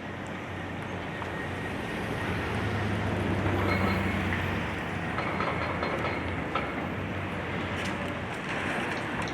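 Diesel engine of a high-reach demolition excavator running with a steady low drone, mixed with a continuous rumble and a few scattered clicks and knocks.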